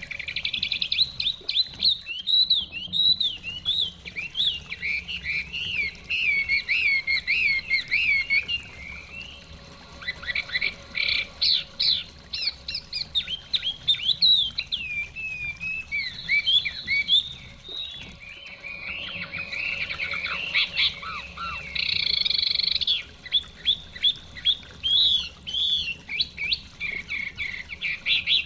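Chinese hwamei singing a long, varied song of fast whistled phrases, pausing briefly twice, over a faint steady rush of a flowing stream.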